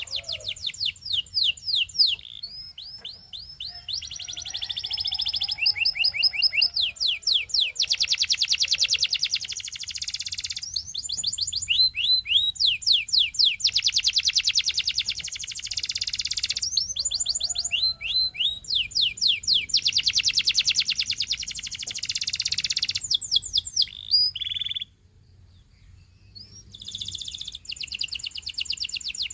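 Domestic canary singing a long song of rapid, evenly repeated high trills, switching from one trilled phrase to the next every few seconds, with a short pause near the end.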